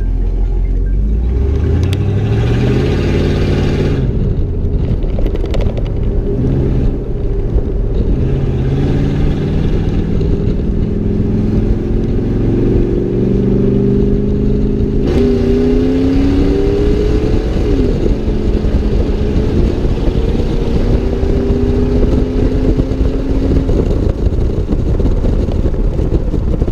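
Straight-piped 5.8-litre (351) V8 of a 1992 Ford Bronco under acceleration, heard from outside the truck. The engine's pitch climbs and drops back several times as it shifts up through the gears, then holds steadier later on.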